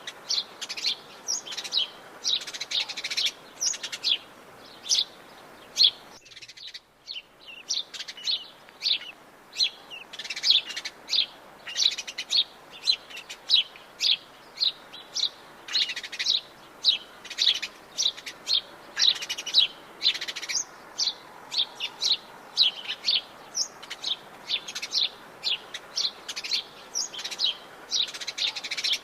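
Forest songbirds chirping: many short, high chirps in quick succession, several a second, with a brief lull about six seconds in.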